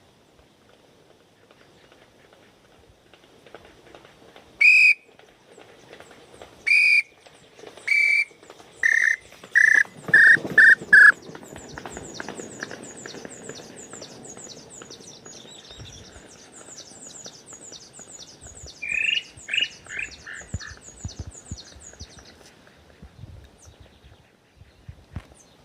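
Whistled call of the pé-roxo, as imitated on a wooden pio: about nine notes that fall in pitch and come faster and faster, then a shorter run of the same notes later on. A fast, high, thin ticking trill runs through the middle.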